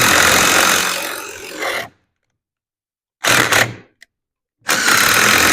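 Handheld power tool run in three bursts of about two and a half seconds, half a second and a second and a half, fastening bolts on the front disc brake assembly.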